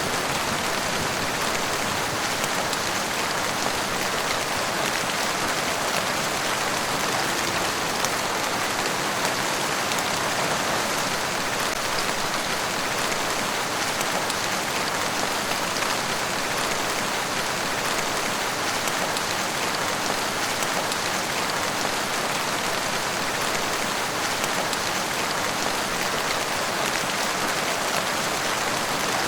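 Steady rain falling on a surface: an even hiss flecked with small drop ticks, unchanging throughout.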